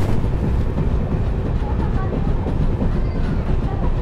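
Moving passenger train heard from beside its coaches: a steady rumble of wheels running on the rails.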